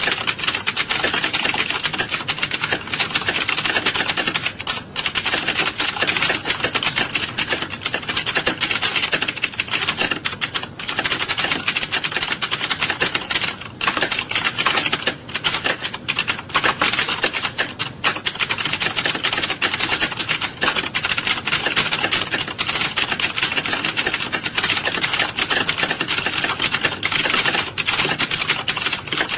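Many people typing at once: a dense, continuous clatter of overlapping keystrokes, with a few brief lulls.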